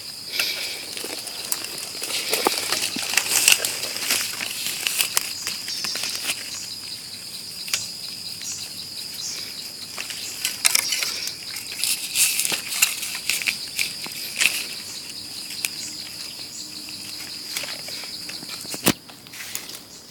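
Irregular crackling and rustling of dry leaf litter and twigs being handled while termite mushrooms are picked from the ground. Under it runs a steady high-pitched insect drone.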